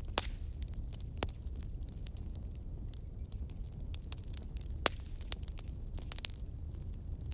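Wood fire crackling: scattered sharp pops and snaps over a low steady rumble, with a few louder pops, one near the start, one about a second in and one near five seconds in.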